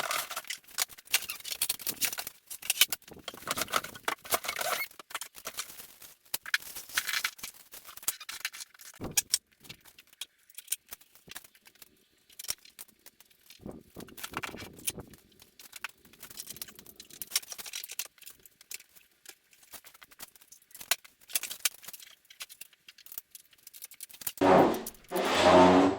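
Hand assembly of Polywood chairs: scattered clinks, clicks and rattles of screws, tools and boards being handled. A short loud voice-like call comes near the end.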